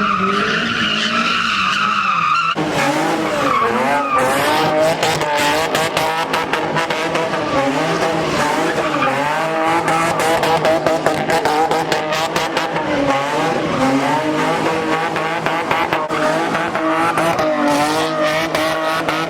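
A car doing a burnout or donuts. For the first couple of seconds the tires squeal steadily, then the engine revs up and down over and over while the tires keep skidding.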